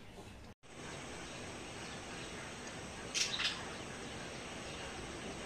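Outdoor ambience: a steady background hiss, with two quick bird chirps about three seconds in.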